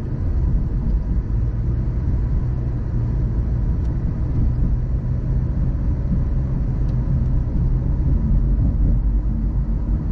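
Car driving along the road: a steady low rumble of tyre and engine noise.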